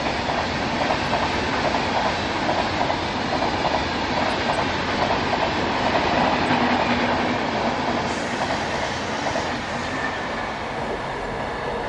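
Shatabdi Express passenger coaches passing at speed: a steady rolling rumble with a rapid, regular clickety-clack of wheels over rail joints. The sound changes about eight seconds in, where the footage cuts to a closer pass of the coaches.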